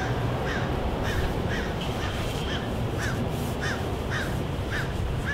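A bird calling in an even series of short notes, each rising then falling, about two a second, over a steady low background hum.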